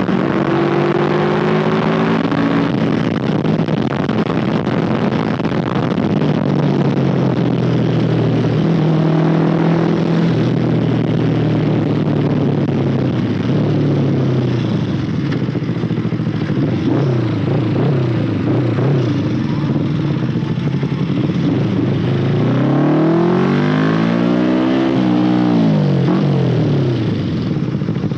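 Motorcycle engine running on the road, its pitch stepping up and down as it accelerates and shifts, with wind and road noise. Near the end a rev rises and then falls away.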